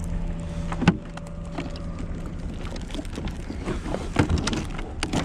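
Knocks, clicks and rustling of an esky and its contents being handled, with a sharp knock about a second in and another about four seconds in. A faint steady hum runs under the first two seconds.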